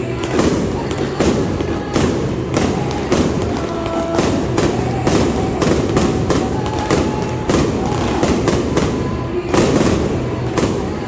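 Bonfire crackling and popping with many sharp, irregular cracks, over faint singing or music.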